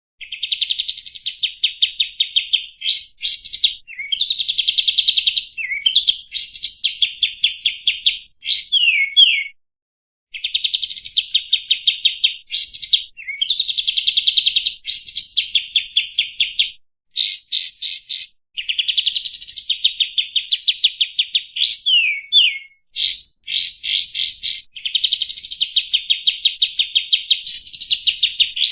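A kapas tembak, a bulbul, singing a long run of fast chattering trills made of rapid repeated notes, broken every second or two by sharp sweeping whistles, with only brief pauses between phrases.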